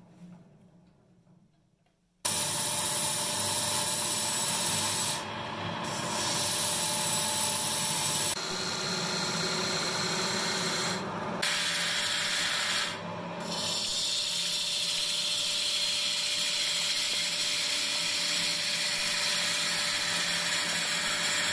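Power saw cutting wood: a loud, steady rasping noise that starts suddenly about two seconds in, dips briefly twice and changes character abruptly a few times.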